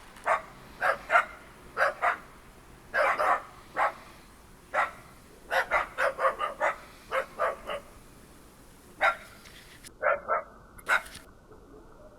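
Dogs barking repeatedly in short, sharp barks that come in irregular clusters, with a brief lull past the middle.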